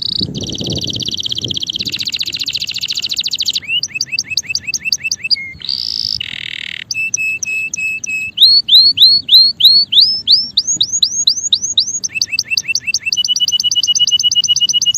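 Male canary singing a long song of fast rolls and trills. Each phrase is a rapid run of one repeated note, buzzy at first, then falling chirps, and later rising chirps and a steady high trill.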